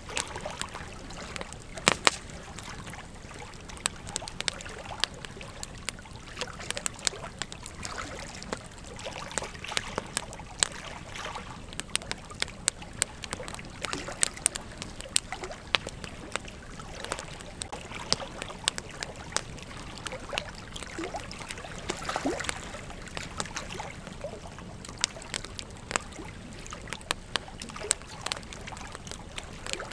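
Campfire burning, the wood crackling and popping in frequent irregular sharp snaps over a steady hiss, with a couple of louder pops about two seconds in.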